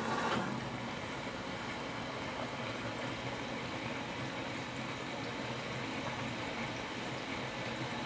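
LG inverter direct-drive washing machine taking in water for a rinse: a steady rush and hiss of water into the drum.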